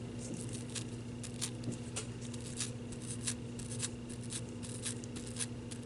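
Sponge dauber dabbing and pressing Mod Podge over a thin napkin layer on an ornament: soft, irregular taps and scrapes, a few a second.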